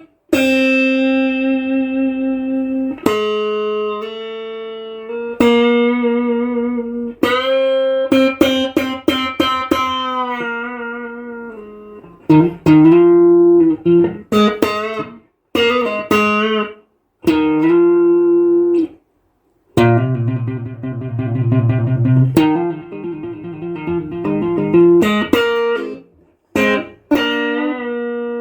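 A 1976 ash-body Stratocaster-style electric guitar played through an amplifier: ringing single notes and chords that sustain and change every second or so, with a few short breaks and a faster, rapidly repeated passage a little past the middle.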